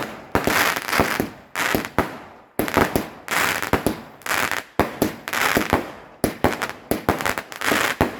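Fireworks going off in a rapid barrage: sharp bangs about two a second, each trailing off before the next.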